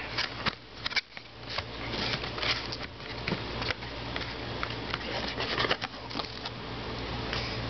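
Handling noise from an oil filter box being turned over in the hands: rustling with scattered light clicks, over a steady low hum.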